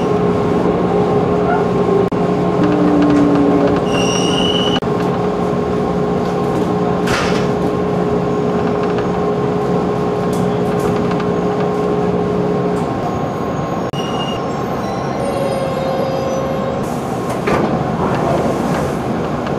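JR 211-series electric multiple unit slowing into a station and coming to a stop, heard from inside the passenger car. Steady rolling noise carries a low hum that cuts off about two-thirds of the way through, with brief high-pitched squeals a few seconds in and again after the hum stops.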